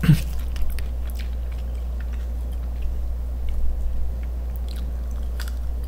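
Crunchy ghost pepper chips being chewed close to the microphone: sparse, crisp crunches over a steady low hum.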